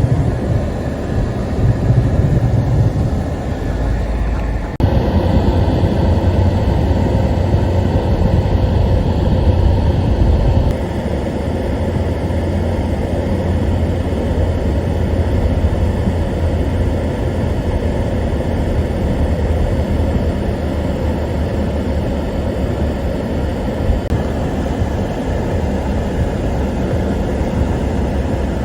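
Steady drone of a car on the road, heard from inside the cabin: engine and tyre noise, strongest in the low range. The sound changes abruptly about 5 and 11 seconds in.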